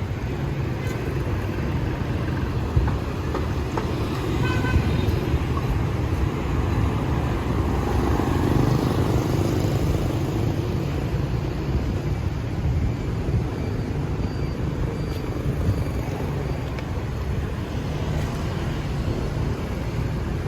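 City street traffic running steadily, with a few short horn toots.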